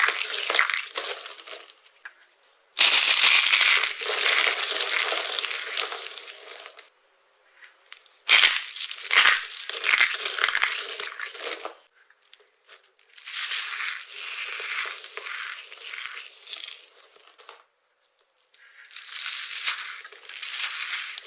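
Dry soap being crushed: crisp crunching and crumbling in about five separate runs of a few seconds each, with short silent pauses between them. The loudest run starts about three seconds in.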